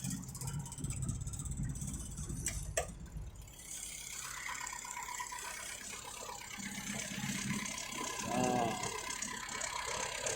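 Motorcycle engine idling steadily, its carburettor freshly cleaned and refitted with a new gasket repair kit, with a couple of sharp clicks about two and a half seconds in.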